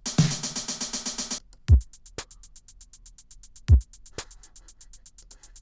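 Drum machine loop in Soundtrap's drum sequencer, auditioning kits. A dense pattern cuts off about a second and a half in. A new beat then starts: fast, steady hi-hat ticks, a deep kick drum twice, and a sharper snare hit half a second after each kick.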